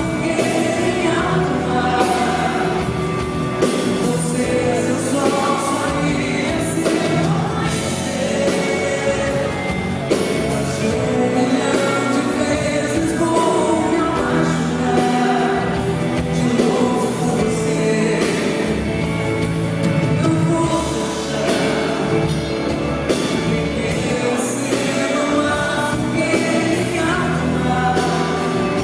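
Live band music with a singing voice over it.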